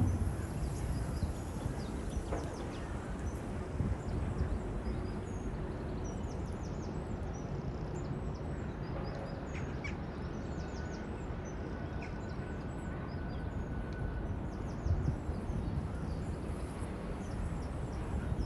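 Wind buffeting the microphone and blowing through the trees, with small birds chirping in short high calls again and again.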